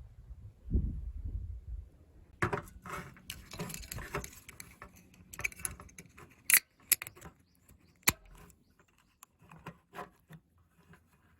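Small hard objects being handled: irregular clicking, rattling and clattering with a few sharp clicks, after a couple of dull low thumps near the start.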